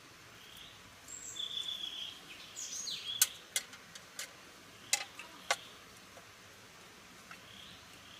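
Birds chirping in short calls with quick pitch glides, then a handful of sharp clicks over a faint steady hiss.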